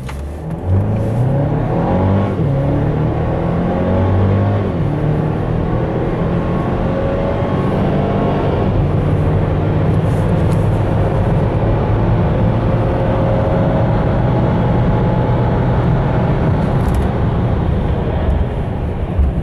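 A 2016 Mercedes GLC 250's 2.0-litre turbocharged four-cylinder pulling hard under full-throttle acceleration from a standstill. Its pitch climbs in each gear and drops back at the automatic's upshifts, about 2, 4½ and 9 seconds in. It then rises slowly in a long, tall gear, easing off near the end.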